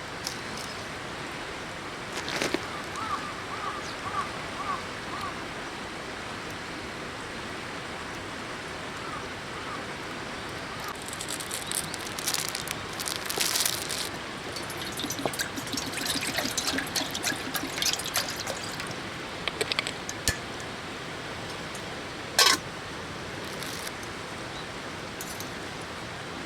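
Steady running water of a river, with scattered clicks and rustles of handling over it and one sharp click about 22 seconds in. A short run of small high chirps comes a few seconds in.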